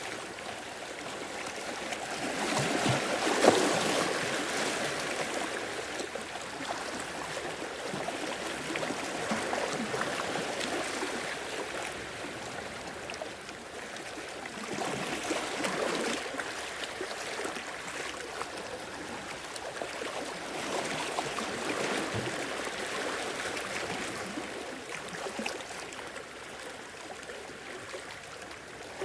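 Sea waves surging in and washing back, swelling every five or six seconds, the biggest surge about three seconds in.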